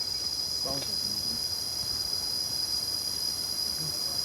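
Steady, high-pitched insect chorus, a continuous unbroken trill.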